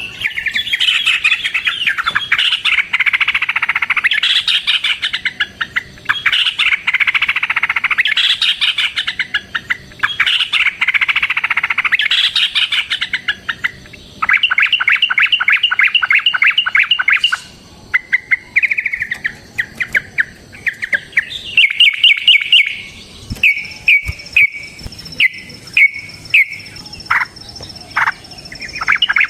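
Yellow-vented bulbul (trucukan) singing loudly: long bursts of rapid chattering song in the first half, then a fast run of evenly repeated notes, and shorter separate phrases near the end.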